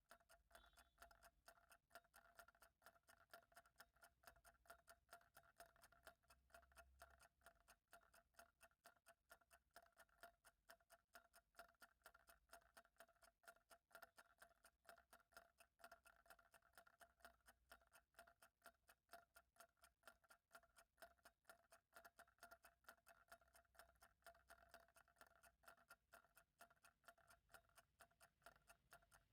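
Faint clock ticking, rapid and perfectly even, over a faint steady hum.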